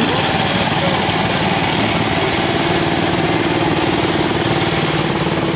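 An engine running steadily with an even, rapid pulse, with a few voices nearby.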